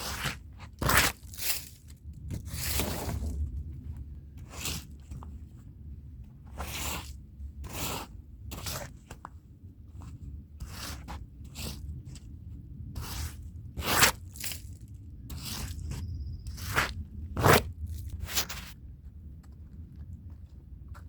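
Hand brush scrubbing a rug's pile in short, irregular strokes, each one a scratchy crunch, with a few sharper, louder strokes. A steady low hum runs underneath.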